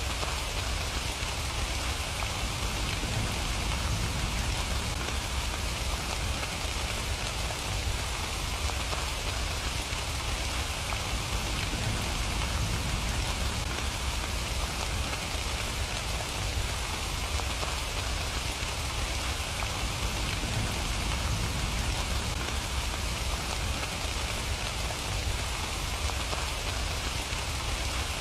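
Steady rain falling: a continuous, even hiss with a low rumble underneath and no change in intensity.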